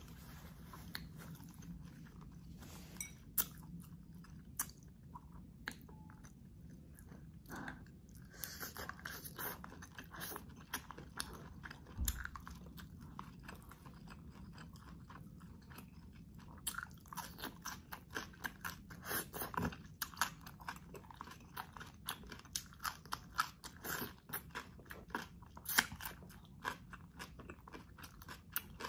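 Close-miked chewing and crunching of food: a run of small wet crackles and clicks that comes in bunches, busiest in the second half, with one sharper knock about twelve seconds in.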